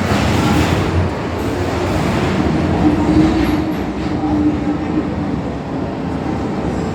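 MTR M-Train metro running through an underground tunnel, heard from on board: a steady rumble of wheels on rail, with a faint wheel squeal in the middle.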